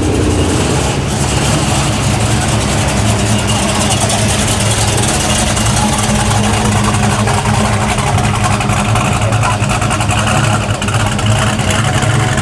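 Car engine idling steadily, a low, even engine note with no revs.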